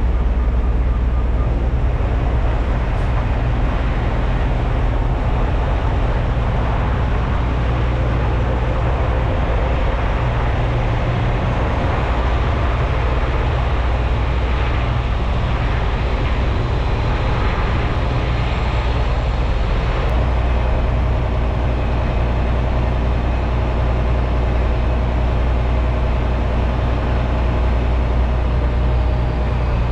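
Semi truck's diesel engine running steadily with road noise, a constant low hum.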